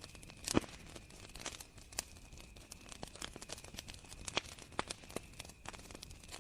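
Campfire crackling, with irregular sharp pops from the burning wood and one louder pop about half a second in. A faint steady cricket trill runs underneath.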